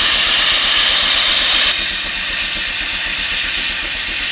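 Steam hissing loudly from a steam traction engine, cutting off suddenly a little under two seconds in and leaving a quieter, duller mechanical rumble.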